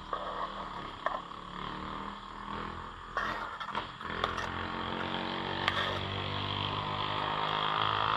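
An engine running steadily, growing louder toward the end and then fading, with a few sharp clicks and knocks.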